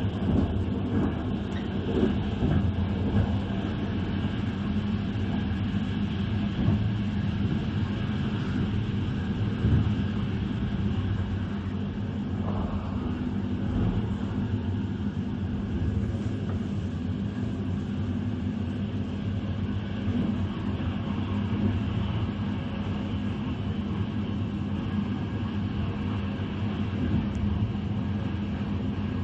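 Passenger train running along the rails, heard from inside the carriage: a steady rumble of wheels on track with a low hum, and a few louder knocks in the first ten seconds.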